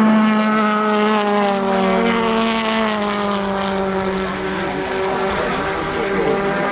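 BTCC touring cars' turbocharged engines at full throttle, several cars together, their engine notes holding and then falling slowly in pitch as they pass.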